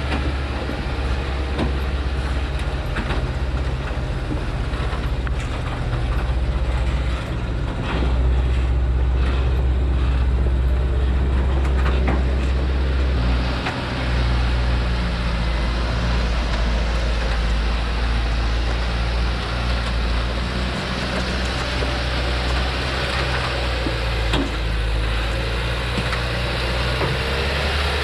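Thaco truck loaded with acacia wood, its diesel engine running with a steady deep hum and occasional knocks and rattles; it grows louder about eight seconds in.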